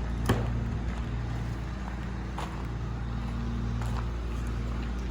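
Steady low hum of a running engine or motor, with a couple of sharp knocks, one just after the start and one about two and a half seconds in.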